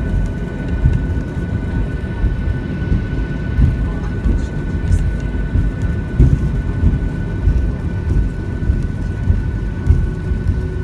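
Cabin noise of a Boeing 737-600 taxiing after landing: a loud low rumble with small irregular bumps, over a steady high whine.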